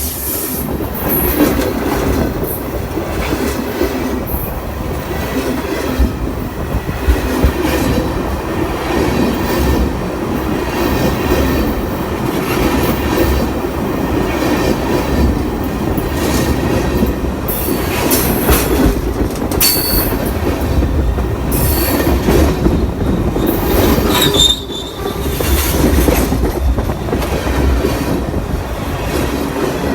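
Freight train cars rolling over the phone at very close range: a steady loud rumble of steel wheels on rail with scattered clacks at the rail joints. A brief high wheel squeal comes about 25 seconds in.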